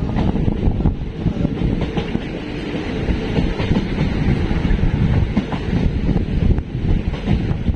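Passenger train running along the track, heard from on board: a steady low rumble of the carriages with rail clatter.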